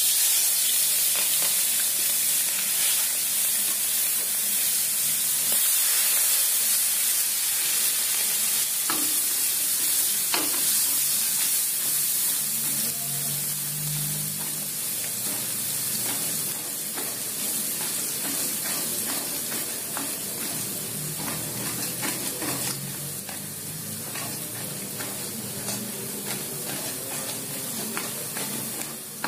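Chopped red chilies and aromatics hitting hot oil in a wok, bursting into a loud sizzle at once and frying steadily, while a wooden spatula stirs and scrapes the pan. The sizzle eases a little in the last few seconds.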